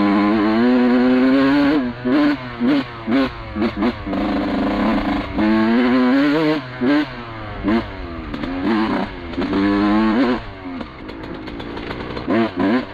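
1991 Suzuki RM125 two-stroke dirt bike engine revving hard, long pulls rising and falling in pitch with short throttle blips between them. It is hitting the powerband and cleaning itself out after fouling on cheap gas-station premix oil, which the rider blames for its poor running.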